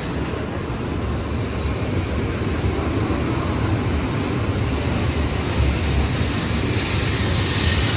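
Shinkansen bullet train pulling out alongside the platform and gathering speed: a steady low rumble of wheels and running gear, with a rushing hiss that grows louder toward the end.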